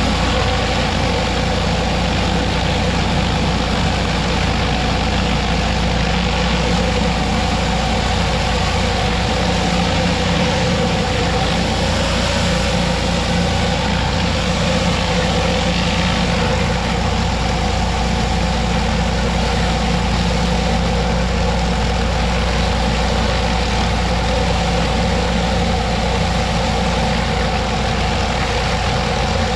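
Pressure washer and surface cleaner running at full power on a concrete driveway: a steady hiss of high-pressure water spraying over a steady engine drone.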